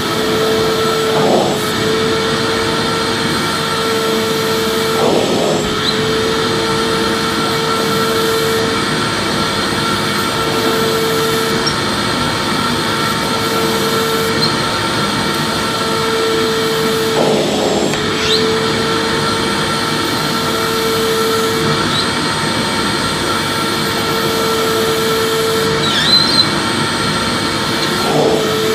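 Vacuum cleaner running steadily: a constant rushing of air with a steady whine, which wavers and briefly breaks off a few times.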